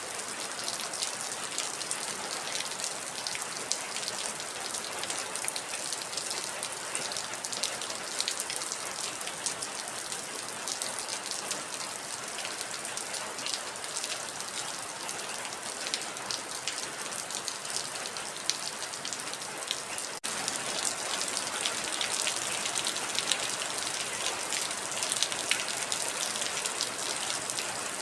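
Heavy rain falling steadily, a dense patter of drops. The sound drops out for an instant about two-thirds of the way through and comes back slightly louder.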